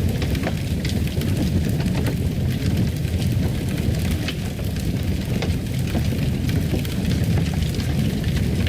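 Fireplace fire crackling: a steady low rumble with scattered small pops and crackles throughout.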